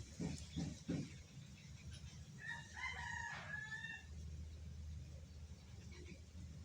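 A rooster crows once, a pitched call lasting about a second and a half, starting about two and a half seconds in. A few low knocks come in the first second.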